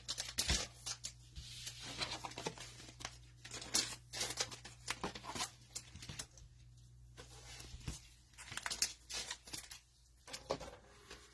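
Cellophane wrapper of a trading-card cello pack crinkling and tearing in irregular crackles as it is worked open by hand, with a steady low hum underneath.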